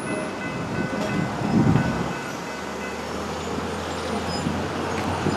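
A train rumbling past at the grade crossing, louder about a second and a half in, with a steady low hum underneath.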